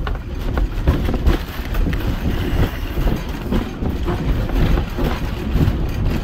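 Steady rumble of a two-foot narrow-gauge passenger car rolling along the track, with a few clicks from the wheels.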